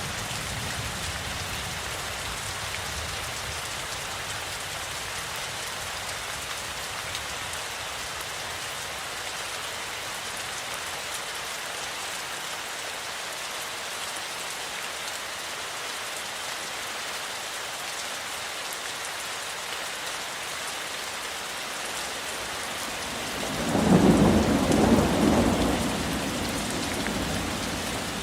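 Steady rain falling, with a rumble of thunder that swells near the end and slowly fades.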